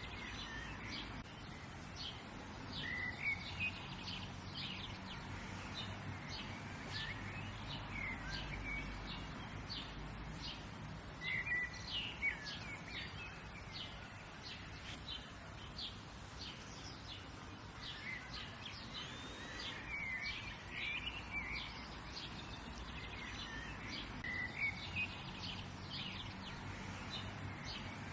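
Several wild birds chirping and calling throughout, short high notes coming in irregular clusters, over a faint steady background rumble.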